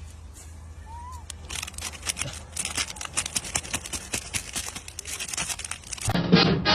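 Dense, irregular crackling and crinkling, like something being torn or crumpled. Music starts near the end.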